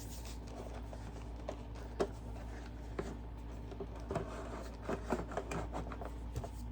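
Unboxing: the hair dryer's box and packaging being handled, with scattered light clicks and taps and a stretch of rustling about four to five and a half seconds in, over a steady low hum.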